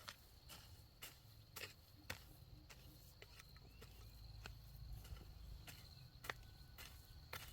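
Faint, irregular knocks of a hoe striking soil, about one or two a second, over a steady high insect trill.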